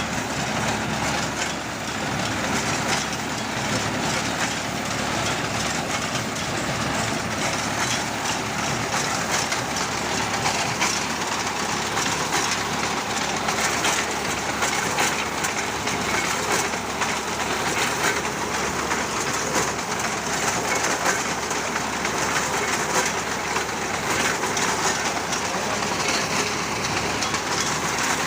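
Tractor engine running with a tractor-mounted reaper binder at work cutting wheat: a steady, dense mechanical noise that holds level throughout.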